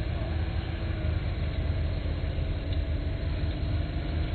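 Off-road vehicle engine running steadily: a low drone with a faint tone that drifts slowly in pitch.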